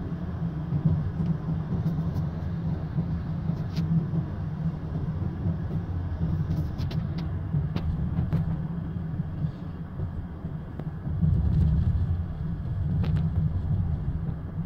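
Car cabin noise while driving slowly on a snow-covered road: a steady low rumble of engine and tyres, swelling louder for a second or so after about eleven seconds, with a few faint clicks.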